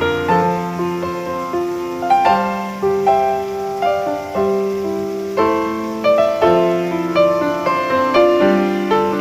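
Background piano music: a slow melody of struck notes that each fade away.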